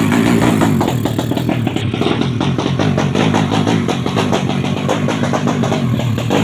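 Yamaha Jupiter drag-bike engine running loud, with a fast, even exhaust beat. Background music plays underneath.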